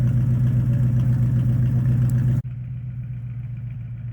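Vehicle engine idling with a steady low hum. About two and a half seconds in, the sound cuts abruptly to a quieter, duller hum of the same idle.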